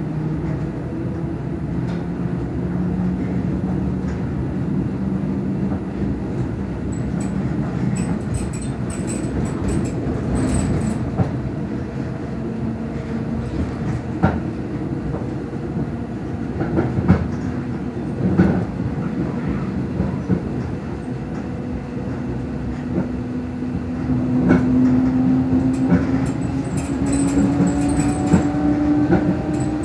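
Inside a PKP EN57 electric multiple unit under way: steady running noise with the hum of its traction motors and wheels knocking over rail joints now and then. The motor hum rises slowly in pitch over the last third as the train picks up speed.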